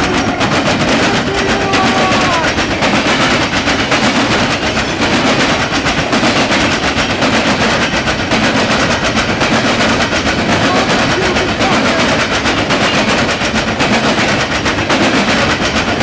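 Norfolk Southern coal hopper cars rolling past at close range, their steel wheels clattering rapidly and loudly over the track.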